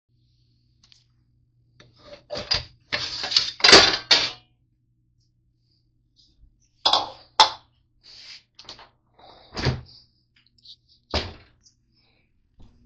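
A string of knocks, thuds and clattering handling sounds, as of a door being worked and things being set down in a small room, over a low steady hum that stops about four and a half seconds in.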